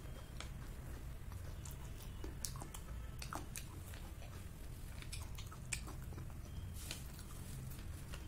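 A person chewing a soft cream-filled bun, with scattered short wet clicks from the mouth and food.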